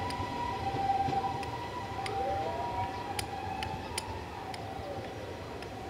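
Yellow electric train pulling away from the platform and receding, with a low rumble and scattered sharp clacks of wheels over rail joints. A steady two-note tone alternates throughout, and a pitched tone rises and then falls away about two to five seconds in.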